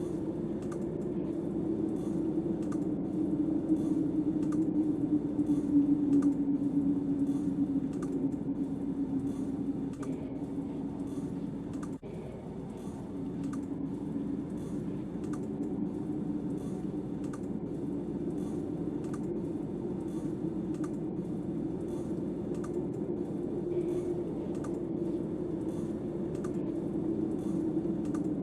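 Steady low howl of snowstorm wind, swelling a few seconds in, with faint light clicks about twice a second.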